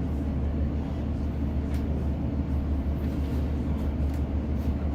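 Steady low rumble inside a British Rail Class 150 diesel multiple unit on the move: underfloor diesel engine and wheels on the track, with a few faint clicks.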